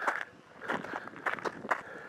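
Footsteps on rough desert ground, about five quick steps.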